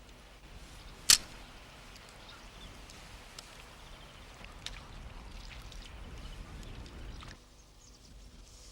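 Outdoor ambience: a steady rushing noise with one sharp click about a second in, then a sudden drop to quieter background near the end.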